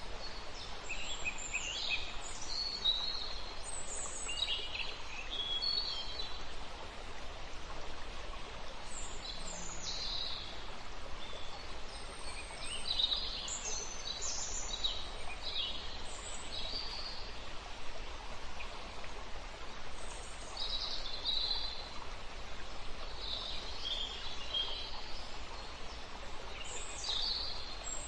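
Birds chirping in short repeated clusters of high calls, over a steady background hiss.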